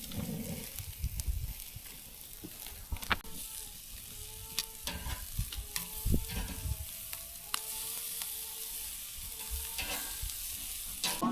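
Shashlik (skewered meat) sizzling over a campfire, a steady hiss with scattered crackles and pops.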